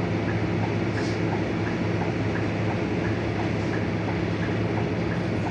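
Scania K230UB city bus's nine-litre five-cylinder diesel engine running steadily under way, an even drone with faint scattered ticks and rattles.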